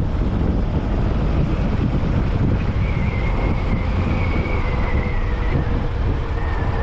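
Wind buffeting the microphone on a moving Royal Enfield Classic 500 motorcycle, with a steady engine drone underneath.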